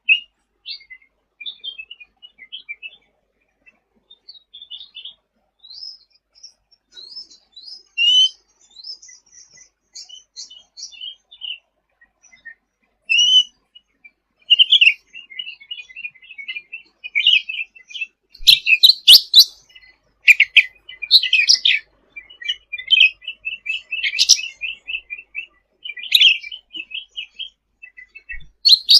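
A cucak ranting (cucak rante) songbird singing in quick chattering twitters and trills, high-pitched. Sparse at first, it grows denser and louder about two-thirds of the way in, with a few sharp loud peaks.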